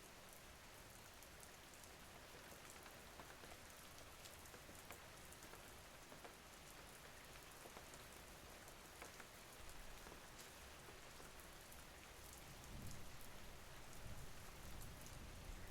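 Faint, steady rain, an even hiss with scattered drops ticking on a surface. A low rumble swells up about 13 seconds in and carries on to the end.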